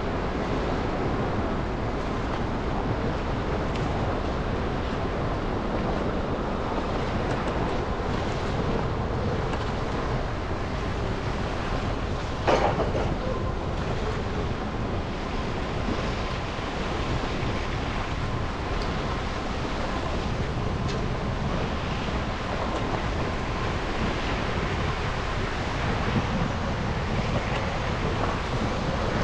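Steady road and traffic noise from a car driving through city streets after a snowstorm, with one sharp knock about twelve seconds in.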